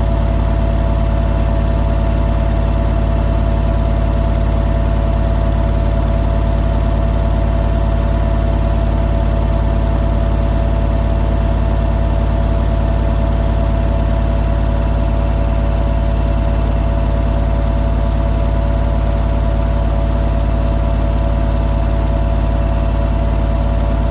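Hoover New Wave Plus 5 WA1300 washing machine in its final spin at 1300 rpm: drum and motor running at a steady speed with a loud, even hum and whine that does not change.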